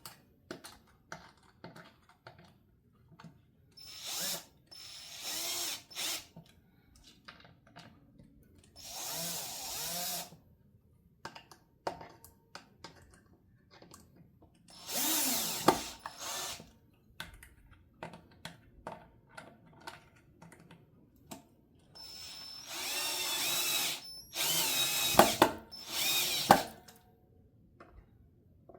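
Power drill driving the neck screws into a Stratocaster-style guitar neck in several short bursts of motor whine, the longest near the end. Small clicks and taps fall between the bursts.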